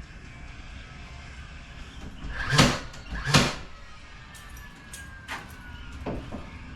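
Two loud knocks a little under a second apart, followed by two fainter knocks, over a low steady background.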